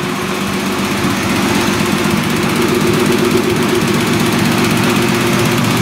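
Freshly built BMW M50B30 turbocharged 3-litre stroker inline-six running steadily, without revving, as it warms up to operating temperature.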